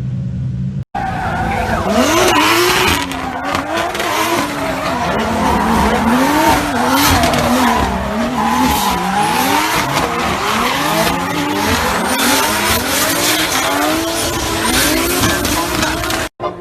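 Toyota Supra's 2JZ turbocharged straight-six revving up and down over and over, with tyres squealing under wheelspin. A brief low rumble comes before a sudden cut about a second in.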